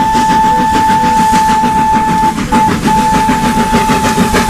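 Train sound: a fast, even chugging clatter with a held high tone over it. The tone breaks off briefly around the middle and then carries on.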